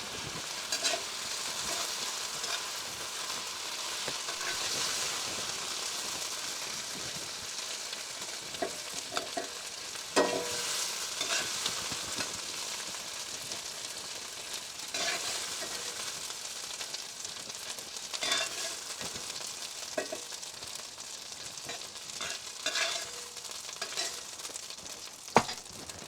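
Sliced chicken frying and sizzling in oil in a pan, with a steady hiss, while a spatula stirs and scrapes it, clicking against the pan now and then; the sharpest knock comes about ten seconds in.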